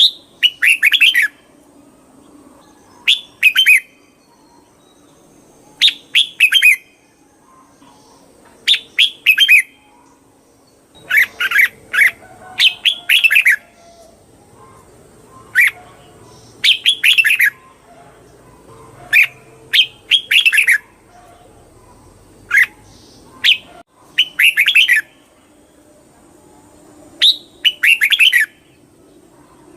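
Red-whiskered bulbul singing short phrases of a few quick, falling notes, repeated about every two to three seconds.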